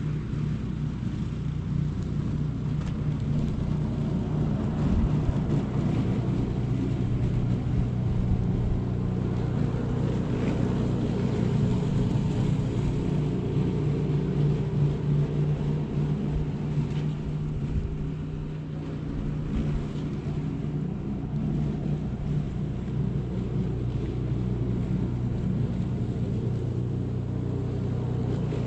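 A motor vehicle running steadily, with a low engine hum and road noise throughout.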